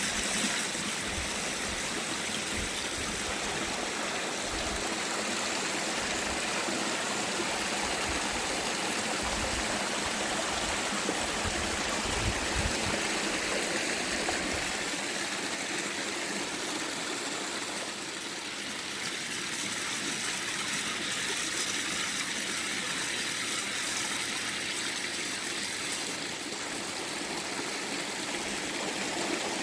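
Spring-fed mountain stream rushing steadily over rocks.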